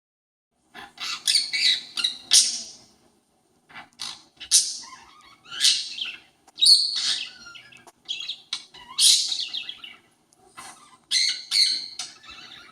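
Pet parakeet imitating a conure's calls: bursts of short, rapid calls, several in quick succession, separated by brief pauses.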